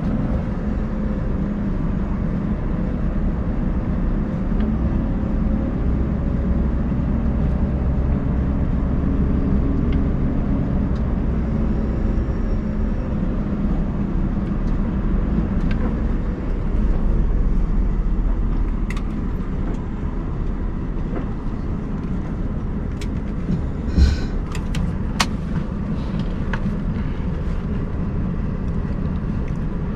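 Scania R580 truck's V8 diesel running steadily under load while reversing on snow, its drive wheels spinning for grip. A few short clicks late on.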